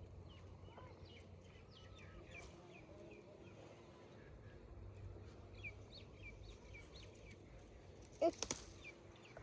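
Faint outdoor ambience with small birds chirping here and there in short, scattered calls over a low steady background hum. About eight seconds in comes a brief, louder call-like sound.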